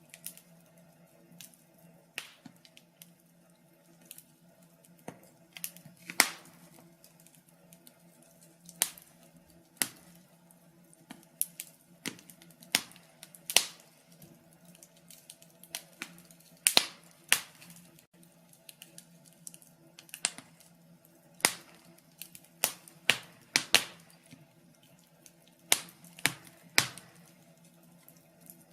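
Wood fire crackling in a fireplace: irregular sharp pops and snaps, one or two a second, over a faint steady hum.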